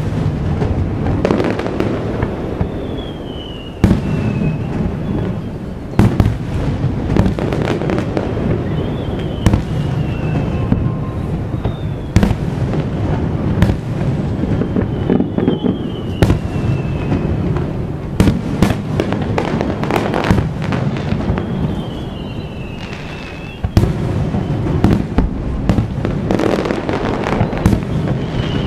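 Aerial firework shells bursting in quick succession: sharp bangs every second or two over a continuous rumble, with short falling whistles now and then.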